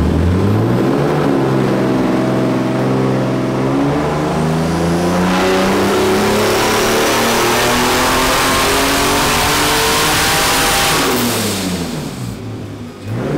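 Turbocharged BMW E36 M3 straight-six running a full-throttle pull on a chassis dyno: the engine note climbs quickly, then rises steadily through the revs for about ten seconds. A rushing noise builds over the second half of the pull. Near the end the throttle closes and the revs fall away, followed by a brief blip.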